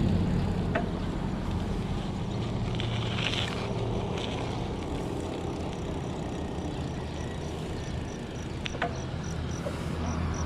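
Steady road and wind noise while cycling along a road, with a motor vehicle's rumble fading away at the start. From about halfway on, a high regular chirping at about three a second sounds in the roadside background, typical of a cricket or similar insect.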